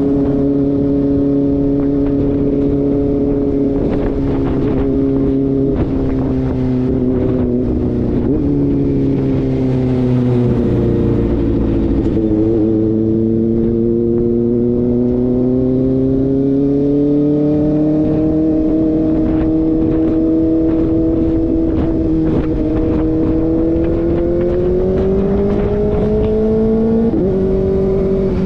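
Kawasaki ZX-4RR inline-four running through an SC-Project slip-on exhaust while being ridden. Its note drops as the bike slows about a third of the way in, then rises gradually under steady acceleration. Near the end the pitch jumps up suddenly.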